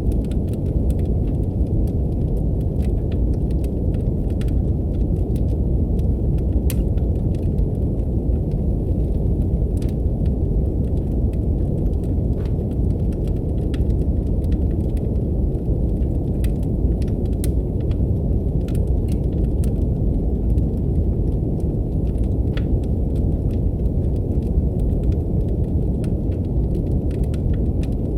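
Steady brown noise, a deep even rushing hiss, with fireplace crackle on top: scattered sharp pops and ticks of burning wood at irregular intervals throughout.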